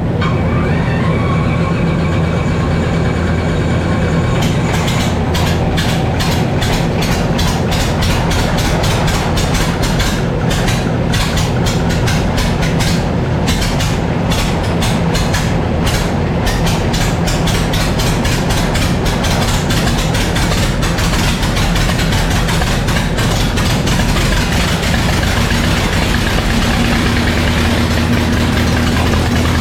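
A Mooney's aircraft piston engine catching as it is cranked and then running steadily at idle on its first run in a test cell. A rapid pulsing runs through the sound from about four to seventeen seconds in, then it smooths out.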